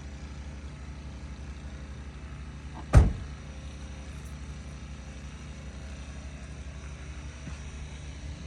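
Car engine idling steadily, a low even hum, with one sharp knock about three seconds in.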